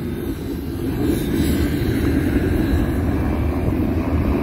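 A train led by the Union Pacific 4014 Big Boy steam locomotive rolling past close by: a steady low rumble of wheels on the rails as the locomotive and its tenders go by, a little louder from about a second in.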